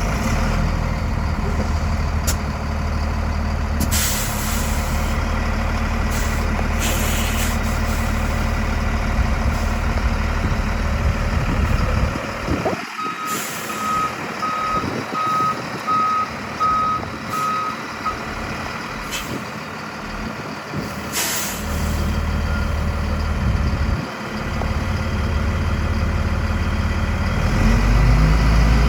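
A 2004 Freightliner M2 106 dump truck's 6.4-litre Mercedes inline-six diesel runs steadily, with several short hisses of air from the brake system. About halfway through, the backup alarm beeps steadily for about five seconds. Near the end the engine speed rises.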